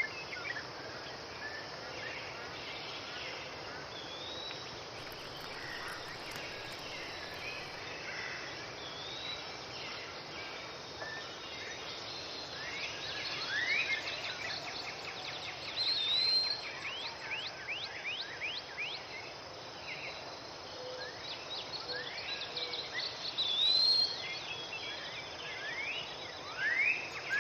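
Songbirds calling, with many short rising whistles and chirps that grow busier about halfway through, over a steady outdoor hiss.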